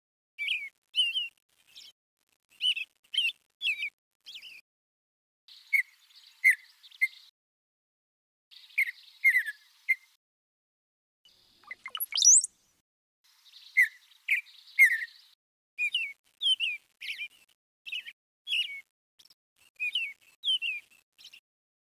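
Small birds chirping: short, clear calls repeated in little clusters, with one quick rising whistle about twelve seconds in.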